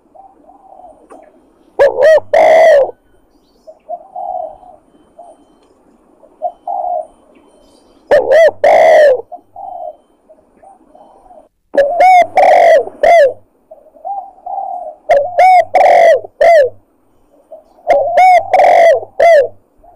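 Spotted dove (tekukur) lure call: five loud cooing phrases of short rounded notes, a few seconds apart, with softer coos in between.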